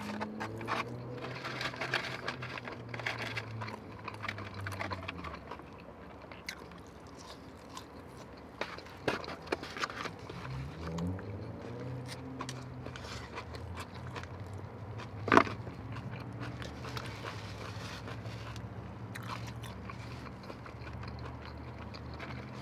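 Close-miked chewing and biting of crinkle-cut fries and coleslaw, with wet mouth sounds and small crunches. A single sharp click about 15 seconds in is the loudest sound.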